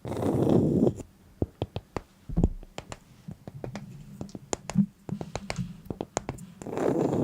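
Close-miked ASMR sounds: a breathy whisper, then a run of sharp, irregular clicks and small taps over a faint low hum, then whispering again near the end.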